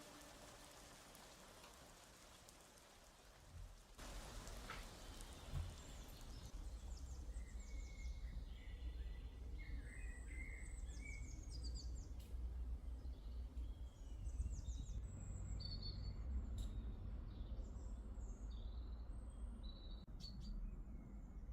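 Small birds chirping and singing in short repeated phrases, starting a few seconds in, over a steady low rumble.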